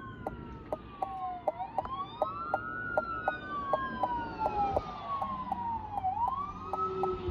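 Two fire apparatus electronic sirens wailing, their slow rising and falling tones out of step with each other, over a steady ticking of about three clicks a second.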